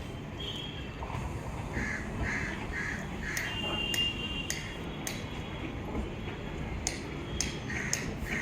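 Crow cawing: a quick run of four caws about two seconds in and a couple more near the end, over a steady low background rumble.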